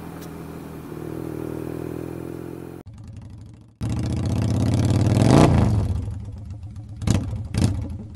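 Motorcycle engine running steadily, then after a sudden cut a motorcycle engine revving up to a peak and falling away, followed by two short, loud bursts near the end.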